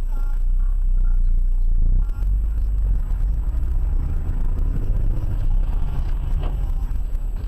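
Steady low rumble of a car driving, road and engine noise as picked up by a dashboard camera.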